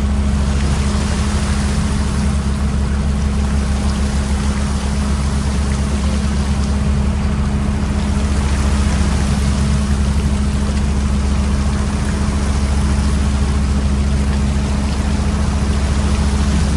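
Fishing boat's engine and deck machinery running steadily with a low, even drone and a broad wash of noise, as the set net is hauled aboard.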